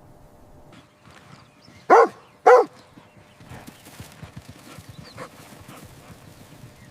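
A dog barks twice, two short sharp barks a little over half a second apart about two seconds in. Faint irregular taps and scuffles follow.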